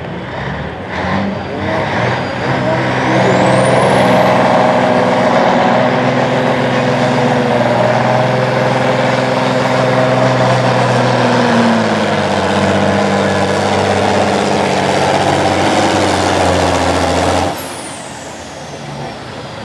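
Diesel semi-truck engine at high revs under heavy load during a truck pull, with a high whine that climbs steeply over the first few seconds and then holds. The engine and whine cut off abruptly about 17 seconds in.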